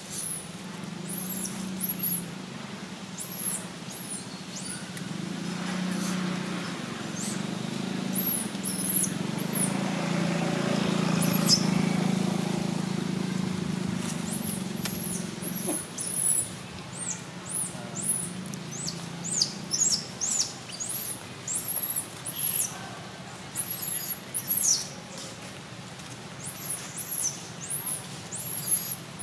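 Small birds chirping: many short, very high-pitched, falling chirps, coming quickly one after another. Under them runs a low steady hum that grows louder around the middle and fades after about two-thirds of the way through.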